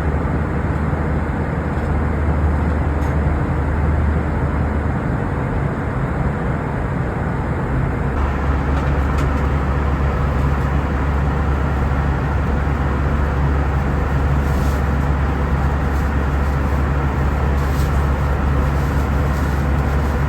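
Steady cabin noise of an Airbus A319 in flight: a low drone of engines and rushing airflow. The low hum shifts slightly about eight seconds in.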